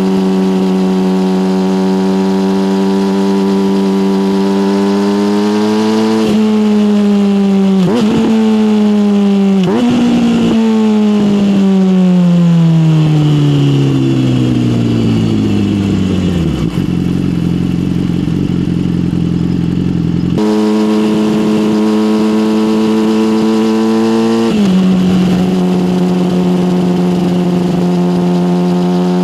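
Yamaha motorcycle with an SC Project aftermarket exhaust, heard while riding. The engine note is steady, then breaks sharply a few times around six to eleven seconds in with gear shifts and throttle changes. The revs then fall away to a low idle, and about twenty seconds in the note jumps back up abruptly and settles steady after a shift.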